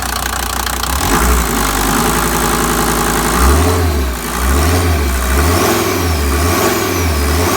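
SsangYong OM662.935 five-cylinder turbodiesel running, then revved repeatedly from about three seconds in, the engine note rising and falling about once a second. A high whine rises and falls with the revs near the end.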